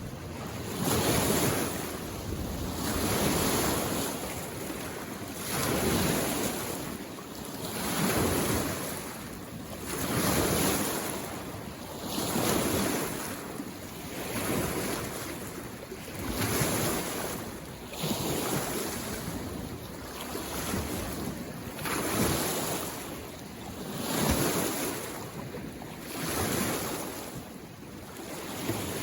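Small waves lapping on a lake shore, each wash swelling and falling away about every two seconds in a steady rhythm.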